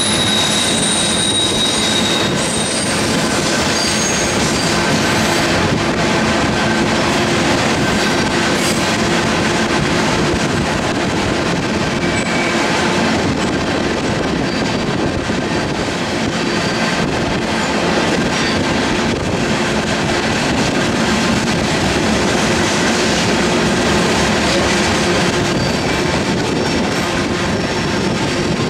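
Two freight trains rolling past side by side, loaded coal hopper cars and double-stack container cars: a steady loud rumble and clatter of steel wheels on rail. A high wheel squeal rings over it during the first few seconds.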